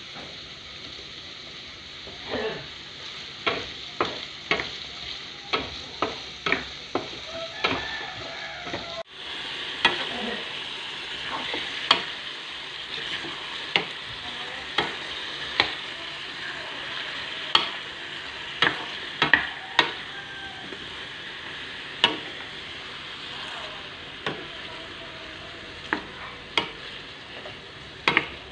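Carrots, onions and chicken pieces sizzling in a frying pan while a wooden spatula stirs them, knocking and scraping against the pan in many sharp taps. The sizzle cuts out briefly about nine seconds in and comes back a little louder.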